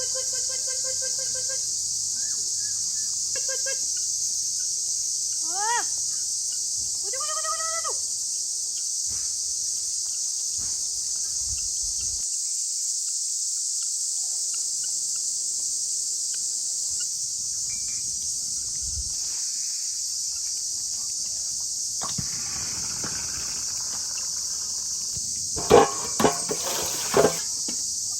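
Steady, high-pitched chorus of insects, typical of crickets. In the first several seconds a few short rising-and-falling calls sound over it, and near the end come three sharp knocks.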